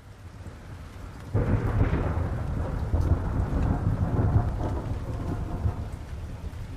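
Thunder rumbling over steady rain: a low roll breaks in suddenly about a second in and slowly dies away while the rain keeps falling.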